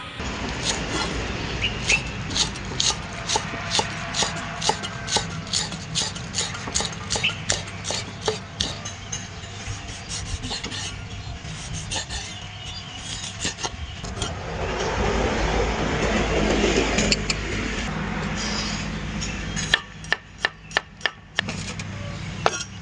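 Knife chopping on a wooden cutting board, about three to four strokes a second, easing off after about nine seconds. A stretch of rough rubbing and scraping follows, and a few loud single chops come near the end.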